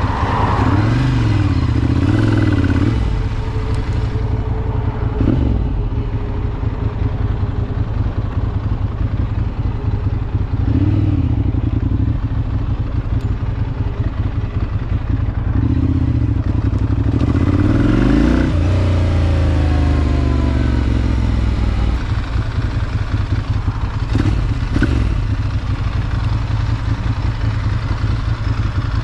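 Ducati Monster 796's air-cooled L-twin engine running under way, its note rising and falling several times as it accelerates and shifts gears, with one long rising rev about two-thirds of the way through.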